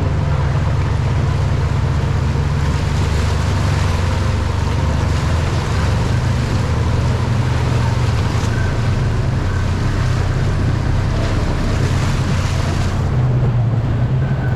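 Side-by-side UTV engine running steadily while driving, under a loud, constant rushing noise.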